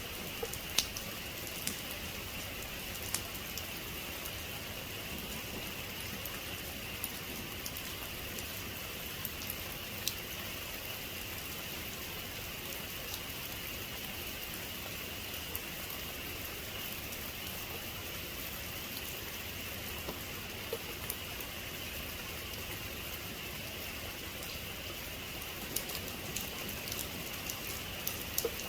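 Steady rain falling on a surface, with scattered sharp drop ticks, a few more of them near the end.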